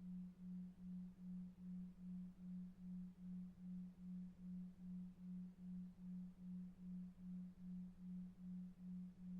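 A low pure tone pulsing evenly about two and a half times a second, a 2.5 Hz delta-wave sleep tone, over faint brown noise.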